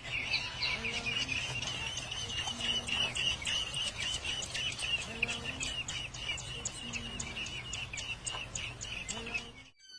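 Small bird chirping in a fast, unbroken twitter of short high notes, cut off abruptly near the end.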